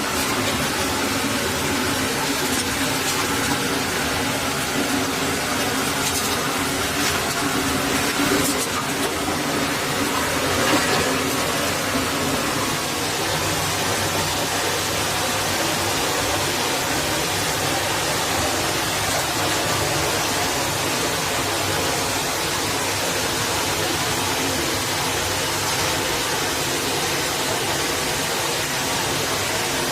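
Forest stream water rushing in a steady, even hiss, with a few light knocks about a third of the way in.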